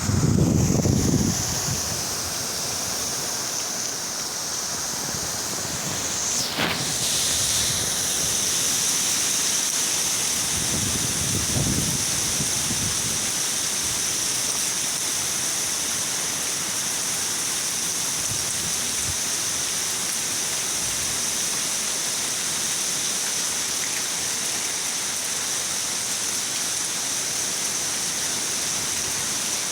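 Steady hiss of heavy rain with strong wind, low gusts swelling right at the start and again around eleven seconds in. A single sharp click about six seconds in.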